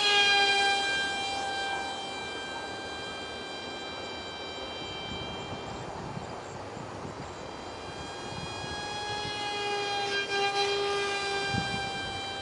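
Ultra micro RC plane's 8mm motor and direct-drive propeller whining at a steady high pitch. The whine swells louder twice as the plane passes close, once at the start, dipping slightly in pitch, and again about ten seconds in.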